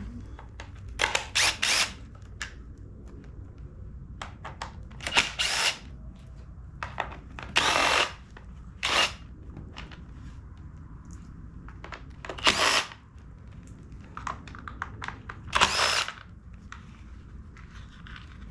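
Cordless power driver running in short bursts of under a second, several times with pauses between, as it backs screws out of a backpack blower's housing.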